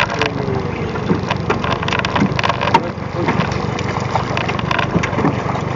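A small fishing boat's engine running steadily under a constant wash of noise, with scattered short clicks and knocks.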